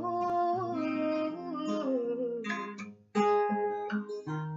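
Acoustic guitar playing a slow instrumental passage of a song, notes held and changing every second or so, with a short break about three seconds in.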